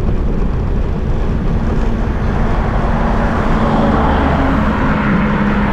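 Busy road traffic: scooter and car engines running close by, with a steady engine hum from about a second and a half in until near the end.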